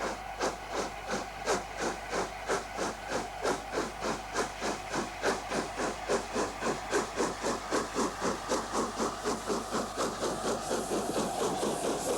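Steam locomotive working hard, its exhaust beating steadily at about three to four chuffs a second with a hiss of steam. Near the end the beats blur into a steadier rush.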